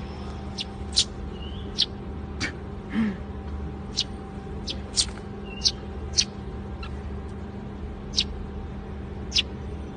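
A pet parrot giving short, sharp high-pitched squeaks, roughly one a second at irregular intervals, each dropping quickly in pitch, over a steady background hum.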